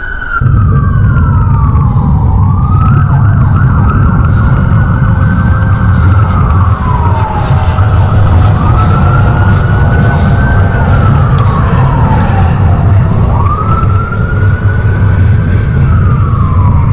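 A siren wailing in slow rises and falls, one cycle about every five seconds, over a loud steady low rumble.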